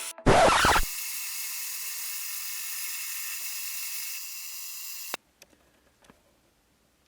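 High-pitched whine of a small power tool's motor running steadily after a short loud burst at the start, cutting off abruptly about five seconds in.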